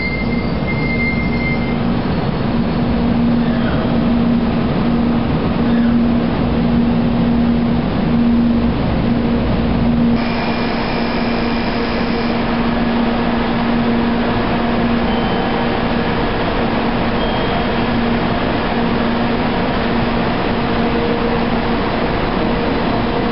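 Tokaido Shinkansen train running on the far track beside the platform, a brief high wheel squeal at the start over a heavy rumble. About ten seconds in the sound cuts to a 700 series Shinkansen standing at the platform, a steady low hum amid station noise with a few short high tones.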